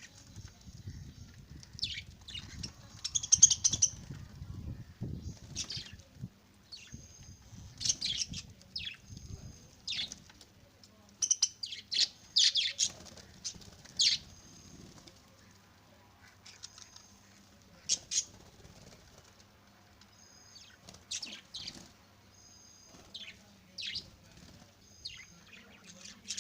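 Budgerigars chirping in short sharp calls, with bursts of wing flapping and fluttering as they bathe, heaviest in the first several seconds and again about eight seconds in.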